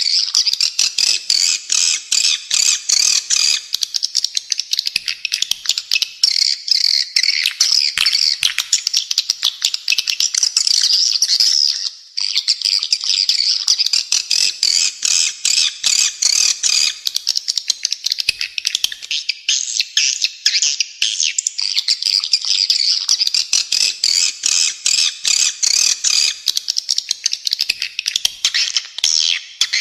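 Spiderhunter song mixed with swiftlet chirping: dense, harsh chirps repeating very rapidly, almost without a break, with one short pause about twelve seconds in.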